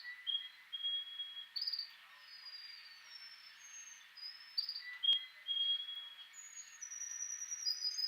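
Songbirds calling and singing: a string of clear, thin whistled notes, each held briefly at its own pitch, some steady and some slightly falling, overlapping from several birds. A single sharp click comes about five seconds in.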